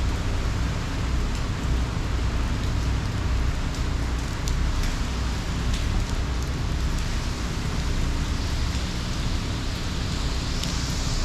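Steady hurricane rain: a constant hiss with scattered drop ticks and a low rumble underneath.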